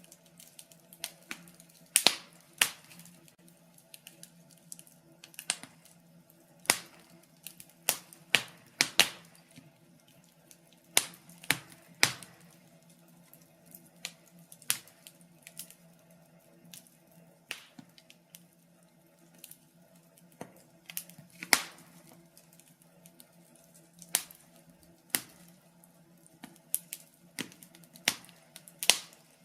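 Wood fire crackling in a fireplace: burning logs give irregular sharp pops and snaps, sometimes several close together, over a faint steady hum.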